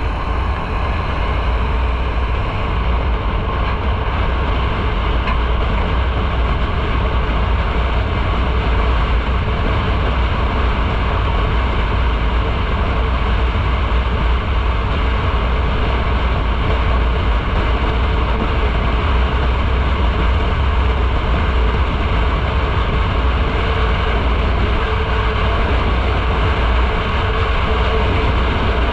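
Motorcycle riding at a steady speed: constant wind and road rumble, heavy in the low end, mixed with engine noise.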